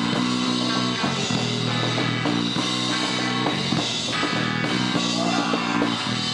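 Live rock band playing loudly: distorted electric guitars, bass and drum kit driving a song's opening before the vocals come in.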